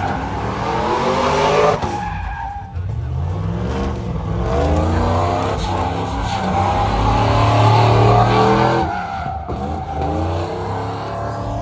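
Truck engine revving hard through a burnout, with tyres squealing. It climbs in pitch twice: a short rise, then a long one lasting several seconds that falls away near the end.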